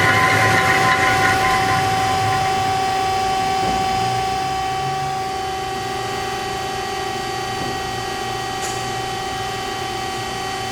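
HEM VT125HA-1 vertical tilt-frame band saw running, a steady mechanical whine of several constant tones; a harsher hiss of metal cutting fades out about two seconds in, leaving the machine running steadily.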